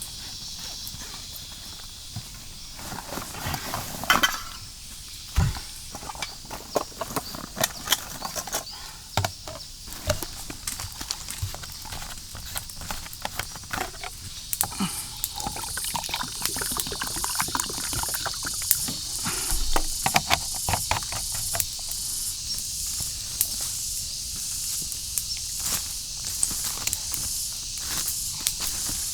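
Irregular crackling and rustling of dry leaves and twigs underfoot as someone moves through forest undergrowth, with a couple of louder snaps about four and five seconds in. A steady high insect hum runs underneath.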